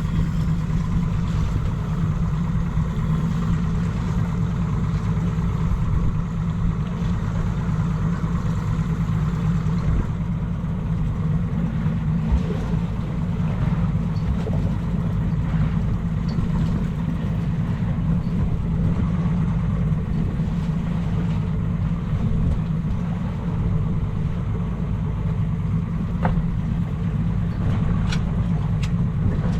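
Boat engine running steadily under way, a constant low drone, with a few light knocks near the end.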